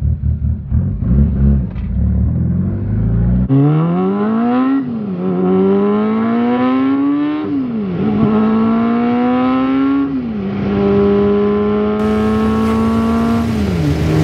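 Mitsubishi Lancer Evolution VIII's turbocharged 2.0-litre four-cylinder heard from inside the cabin, first a low uneven rumble, then accelerating hard through the gears. The pitch climbs and drops at three upshifts, holds steady while cruising, and steps down once more near the end.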